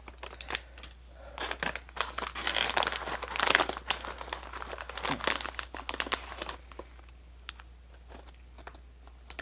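Crinkly snack bag being torn open at its tear notch and handled, a dense run of crinkling and crackling for about five seconds, then a few faint rustles.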